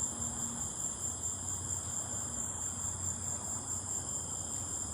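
A steady, unbroken chorus of insects: a high, even trill with fainter lower tones beneath it.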